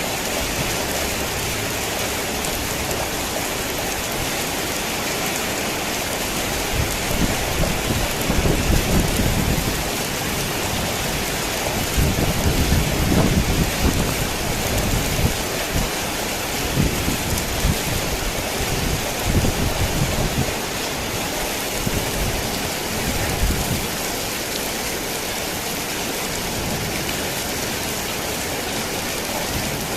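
Heavy rain falling steadily on a tin roof, an even hiss, with thunder rumbling in several rolling swells from about seven seconds in until about twenty-four seconds in.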